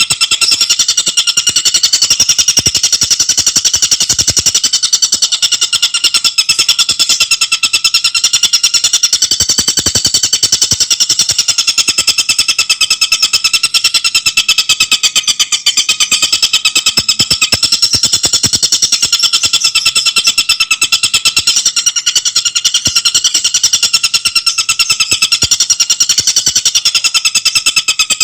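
Tengkek buto bird song: a loud, continuous, very rapid rattling trill of tightly packed notes, wavering slightly in pitch.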